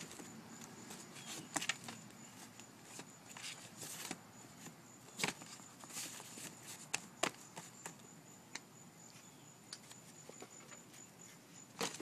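Belongings being handled and shifted around in packing boxes: scattered knocks and clunks with bits of rustling, irregular and at no steady rhythm.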